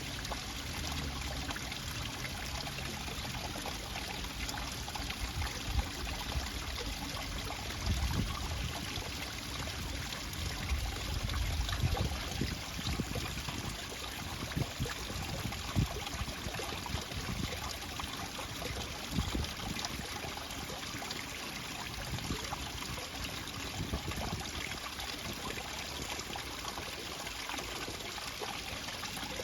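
Running water trickling steadily, with a few brief louder surges.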